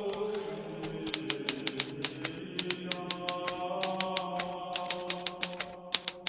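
Hermes Baby portable typewriter being typed on, a quick run of key strikes with brief pauses between bursts. Soft sustained background music plays underneath.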